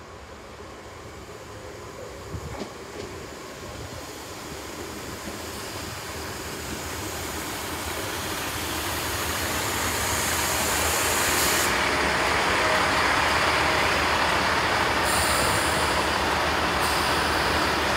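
A GWR Class 166 Turbo diesel multiple unit approaches and runs in along the platform, growing steadily louder over the first ten seconds and then holding. A high hiss cuts off suddenly about twelve seconds in, and a second, shorter one comes near the end.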